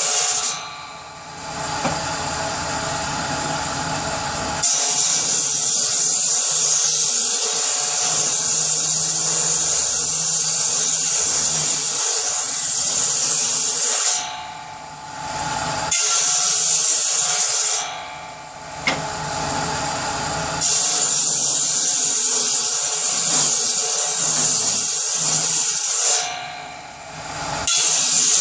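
Power saw cutting through wood, a loud hissing cut held for several seconds at a time, dropping off briefly between cuts four times.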